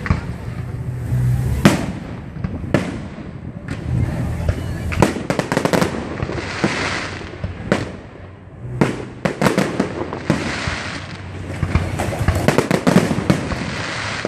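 Aerial fireworks display: shells bursting in a rapid, irregular barrage of sharp bangs and booms, with crackling between them that swells and fades.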